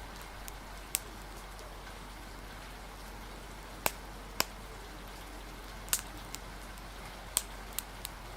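Steady hiss of rain with a wood fire crackling: a handful of sharp, irregular pops spread through it.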